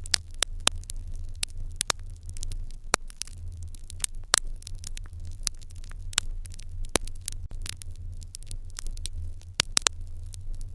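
Wood fire in an irori hearth crackling, with irregular sharp pops, a few of them loud and in quick clusters near the middle and end, over a low steady hum.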